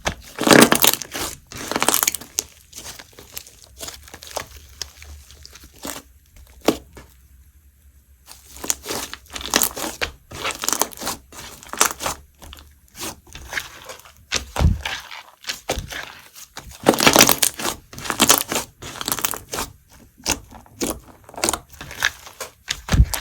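Hands squeezing, folding and stretching a soft cream slime mixed with crunchy chips, giving dense crackling crunches and sticky clicks in flurries, with a short lull about a third of the way in.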